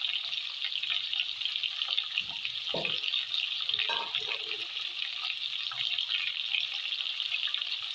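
Chicken pieces frying in oil and garlic in an aluminium pot: a steady crackling sizzle, with a couple of brief duller sounds near the middle.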